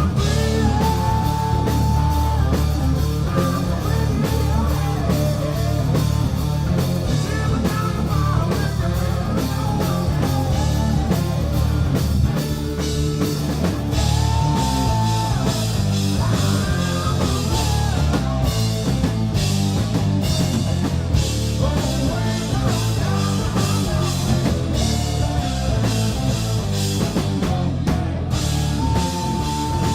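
Live rock band playing, with guitar and drum kit over a heavy low end; a high held note rings out near the start, again about halfway through, and near the end.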